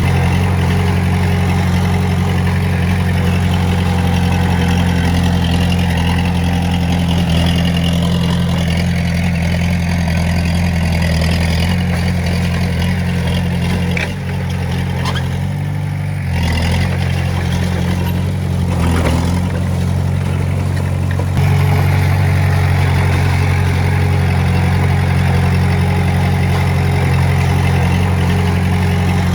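Heavy-equipment diesel engine running steadily. About halfway through it drops in level and shifts pitch for several seconds, then comes back louder for the rest.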